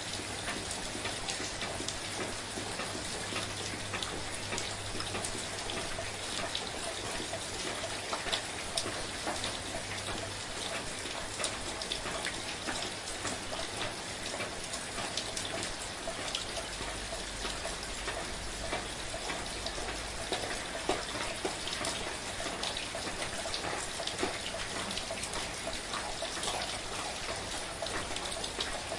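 Steady, soft rain falling, with a dense patter of individual drops striking a surface.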